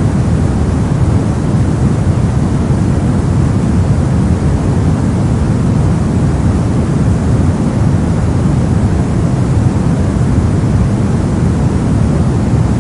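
Steady soft noise: an even, deep hush with most of its weight in the bass and little hiss on top. It stays unchanged throughout.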